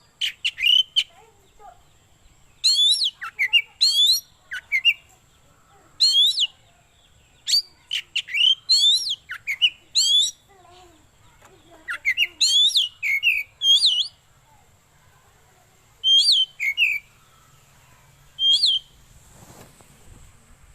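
Oriental magpie-robin (kacer) singing: bursts of short, sharp whistled notes sweeping up and down, in phrases a second or two apart. A brief low rustle sounds near the end.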